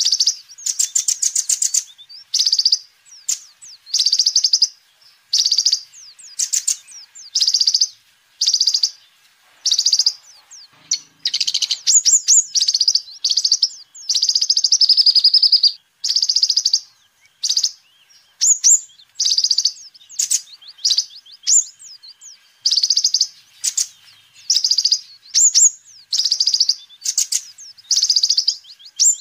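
Kolibri ninja sunbird singing: high, rapid twittering chirp phrases, each about half a second to a second long, repeated one after another with short pauses.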